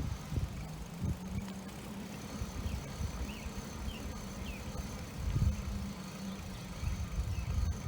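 Riding an electric bike: uneven wind and road rumble on the microphone, with a steady low hum through the middle. A few faint short chirps come about three to four seconds in.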